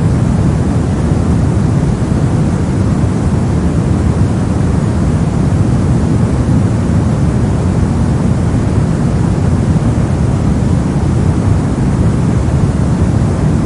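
Soft noise: a steady, deep, even hiss, heavy in the low end and dull at the top, with no change.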